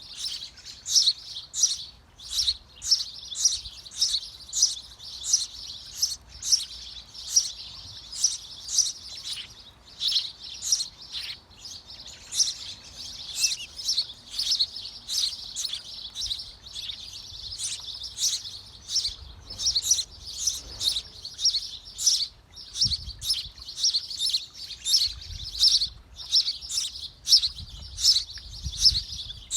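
Birds chirping over and over, high-pitched chirps about twice a second without a break.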